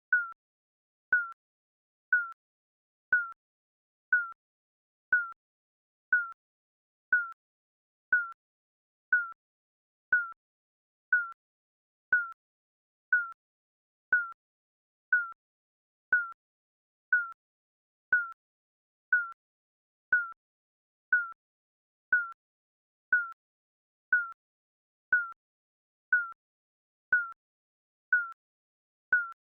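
Digital countdown timer beeping once a second: a short, high beep that dips slightly in pitch, with a click at its start, marking each second as the timer counts down.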